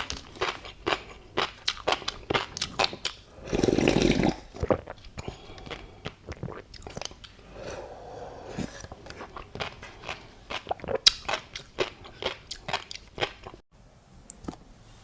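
Close-miked chewing of tobiko fish roe and a crunchy seafood topping: a dense run of sharp pops and crunches. A louder burst of noise lasting under a second comes about three and a half seconds in. The chewing stops suddenly near the end.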